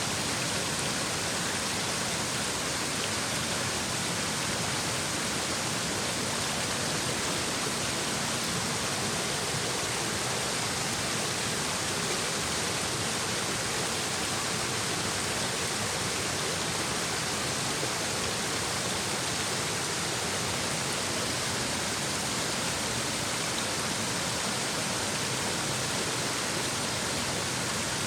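A shallow stream babbling over rocks: a steady, even rush of flowing water with no breaks.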